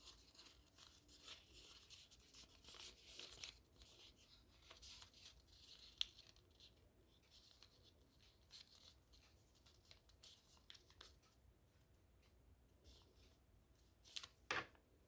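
Sheet of origami paper being folded and creased by hand: faint intermittent rustling and scraping, with one sharp tick about six seconds in and two louder crinkles near the end.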